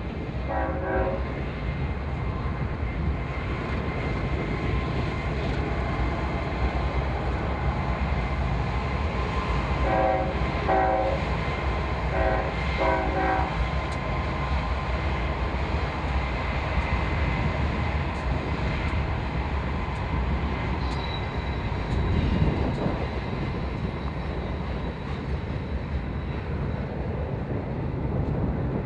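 Train passing with the steady rumble of its locomotives. A multi-chime air horn gives a short blast about a second in, then a run of four short blasts between about ten and fourteen seconds in.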